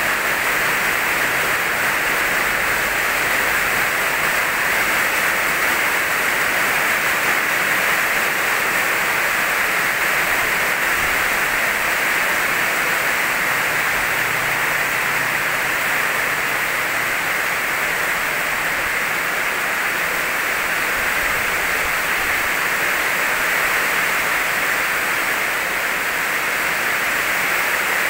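Steady rain falling on a corrugated metal roof: an even, unbroken hiss.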